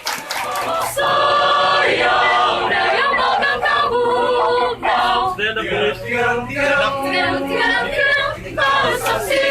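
Mixed-voice choir singing a cappella in harmony, coming in about a second in.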